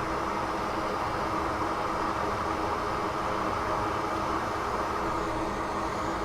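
Steady rushing airflow from a fan on a soldering bench, an even hiss with a faint low hum under it.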